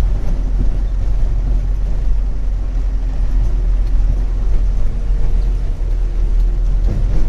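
Truck engine running while the truck drives along, a loud, steady low rumble with road noise.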